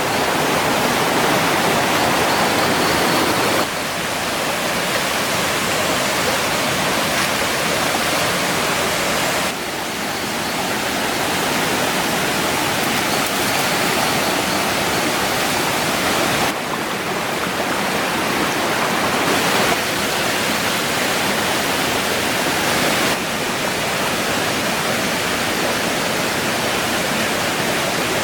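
Steady rush of flowing water, an even hiss with no distinct events, its tone and level shifting abruptly several times.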